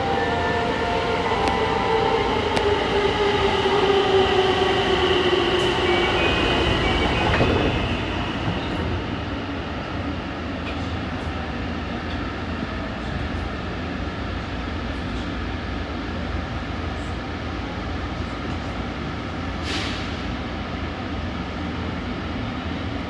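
Tsukuba Express electric train running through a tunnel, heard from the front of the train. For the first several seconds a motor whine slides slowly down in pitch and fades out about 8 seconds in, leaving a steady rumble of wheels on rail. A single brief click comes about 20 seconds in.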